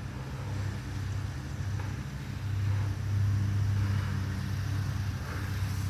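Lawn mower engine running steadily with a low hum, growing louder a couple of seconds in and easing off slightly near the end.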